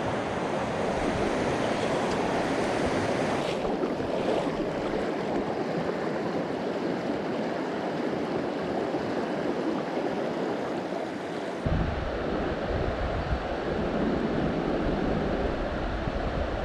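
River water rushing steadily over rocks. About twelve seconds in, a deeper rumble of wind on the microphone joins it.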